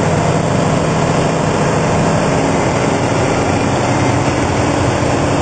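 Truck engine running steadily, an even low hum with a few held tones.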